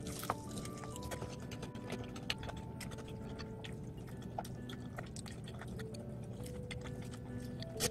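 Close-miked biting and chewing of seasoned fried chicken, with scattered sharp crackles from the crispy crust, the loudest just after the start and near the end. Light background music with held notes plays underneath.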